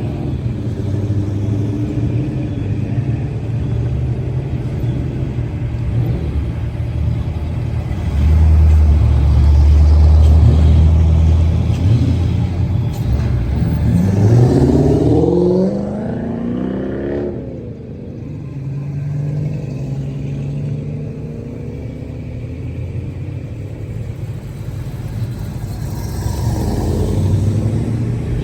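A car engine running, with a strong low drone for a few seconds, then rising in pitch as it revs or accelerates about halfway through before dropping away.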